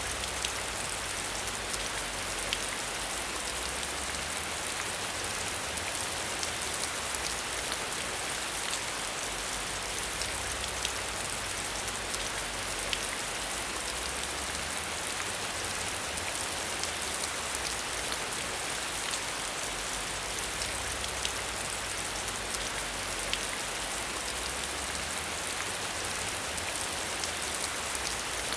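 Steady rain falling, with many small sharp drop ticks scattered through an even hiss and a soft low rumble underneath.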